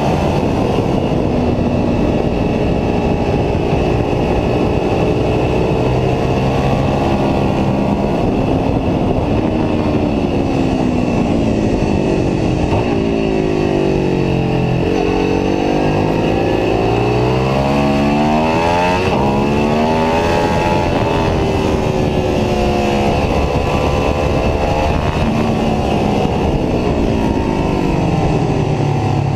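Ducati 749S's 90-degree V-twin engine at hard track pace, heard from onboard with wind noise. Its pitch climbs under acceleration and drops as the bike slows for corners, falling lowest about halfway through before climbing again.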